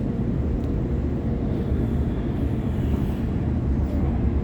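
Waratah electric multiple unit running between stations: a steady low rumble of wheels on track, heard from inside the carriage.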